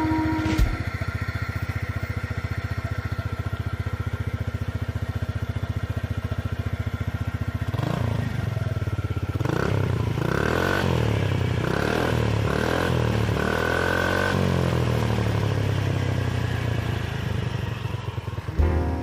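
Honda PCX125 scooter's single-cylinder four-stroke engine, exhaling through a Moriwaki aftermarket muffler: it idles steadily, is revved up and down several times about halfway through, then settles back to idle.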